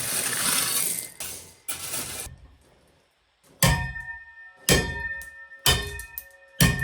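Gravel scraping and rattling for about two seconds. Then, after a short pause, a steel hand tamper strikes the gravel base roughly once a second, each blow a sharp clang with a ringing tail, compacting the base for a concrete slab.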